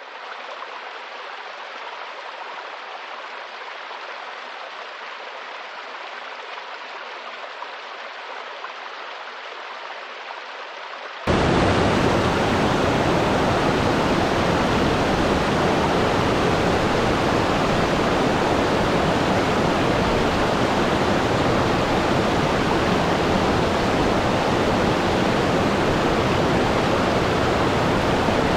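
Waterfall, falling water making a steady rushing noise. About eleven seconds in, it switches abruptly to a much louder, fuller and deeper rush.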